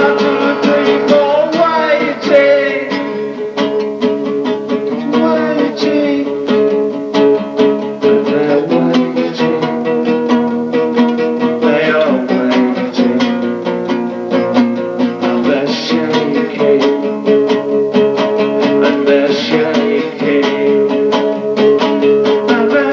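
Acoustic guitar strumming chords in an instrumental passage of a song, the chords changing every second or two.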